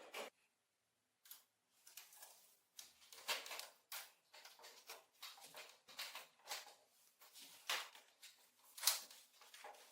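A run of short scraping strokes, irregular at about one to two a second, starting about a second in, as in hand work on a piece of metal.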